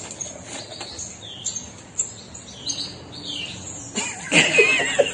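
Parrot chirping and whistling: short high squeaks and quick pitch glides, then a louder warbling call about four seconds in.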